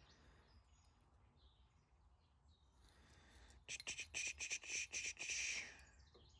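A bird chirping: a quick run of high chirps lasting about two seconds, starting a little past the middle, after a quiet stretch.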